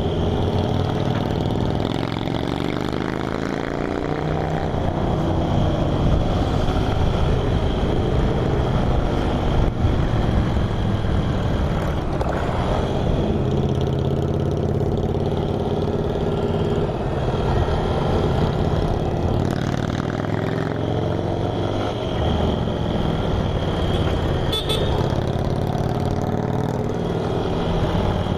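Motorcycle engine running under way with wind and road noise, its pitch rising as it accelerates a few seconds in and again about two-thirds of the way through.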